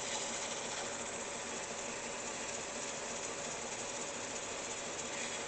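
Steady hissing whir of a powered cleaning tool working a metal table-saw part, with a faint steady motor hum underneath.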